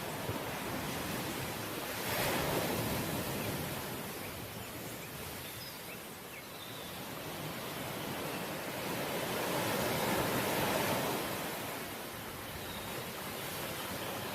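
Sea waves breaking and washing on the shore, a steady surf noise that swells twice, sharply about two seconds in and more slowly around ten seconds in.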